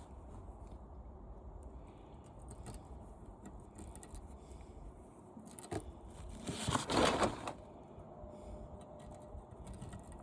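Quiet metal handling noises from a window air conditioner's condenser coil being worked apart by hand, with a small click and then a louder scrape of metal about a second long roughly two-thirds of the way in.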